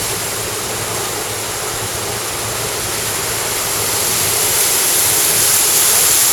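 Water pouring over a waterfall: a steady, even rush that grows a little louder near the end.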